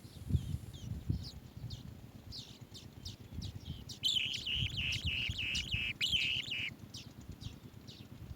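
Asian green bee-eater calls: short high chirps throughout, and a louder rapid trill lasting about two and a half seconds in the middle. A couple of low thumps come near the start.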